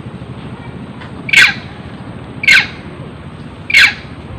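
Monkey screaming: three short, shrill screams about a second apart, each dropping in pitch at its end.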